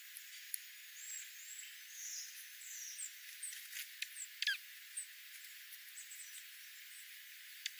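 Small wild birds chirping: short high chirps scattered throughout, with one louder call sliding down in pitch about four and a half seconds in, over a steady high hiss.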